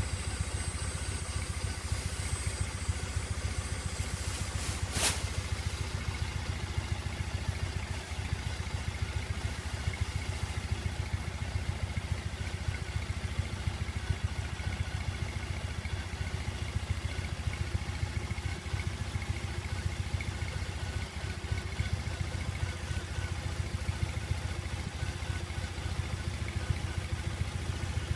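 2013 Triumph motorcycle engine idling steadily after a fresh oil change, with an even low pulsing. A single sharp click about five seconds in.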